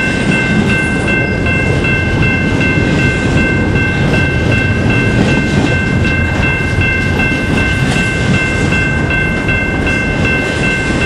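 Double-stack container train's well cars rolling past close by, a steady heavy rumble of steel wheels on rail with faint clicking over the joints. Several steady high-pitched tones ring over it without a break.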